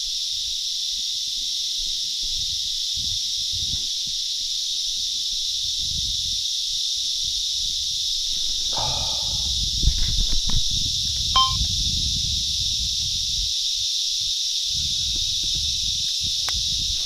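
A steady, high chorus of cicadas. Under it are irregular low rumbles and a few knocks, busiest around nine to eleven seconds in.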